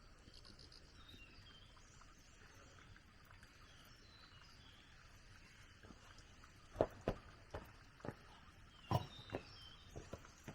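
Faint outdoor ambience with short high chirps from insects or birds, then a series of about seven sharp knocks in the second half, unevenly spaced, the loudest about seven seconds and nine seconds in.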